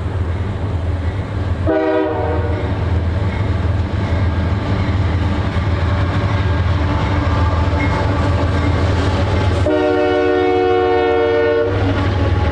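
CSX freight locomotives running past with a steady low engine rumble while the lead unit's Nathan K3LA air horn sounds a short blast about two seconds in and a longer blast of about two seconds near the end.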